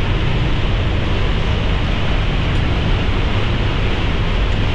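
Steady loud rushing of water in a canyon streambed, an even roar without breaks.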